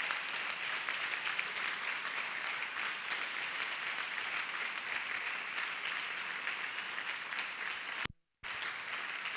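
Congregation clapping steadily, a dense crackle of many hands together. It breaks off completely for a moment about eight seconds in, then carries on.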